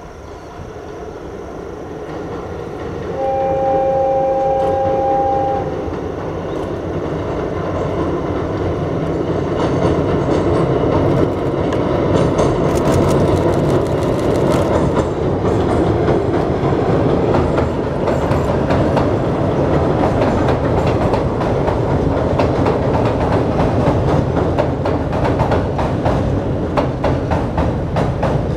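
Electric locomotive hauling passenger coaches, giving one two-tone horn blast about three seconds in, then running onto a steel girder bridge. The rumble grows louder, with rhythmic clickety-clack of the wheels over the rail joints.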